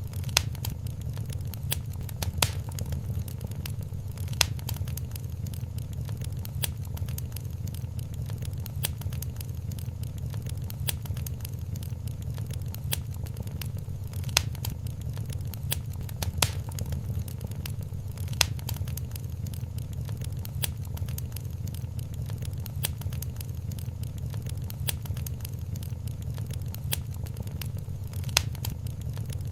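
Wood fire in a fireplace crackling, with scattered sharp pops over a steady low rumble of the flames. A handful of louder pops stand out among the many small crackles.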